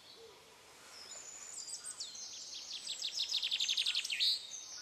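A songbird singing: a few quick high notes, then a fast trill that grows louder and ends in a short flourish about four seconds in, over a faint outdoor hiss.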